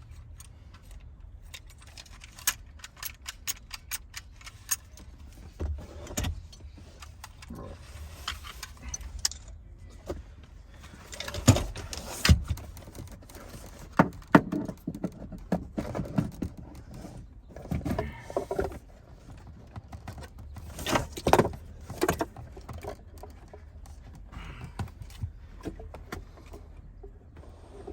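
Irregular metal clinks and rattles from the rear seatbelt retractor and its hardware being handled and forced toward its mount, with a few louder knocks about halfway through and again later.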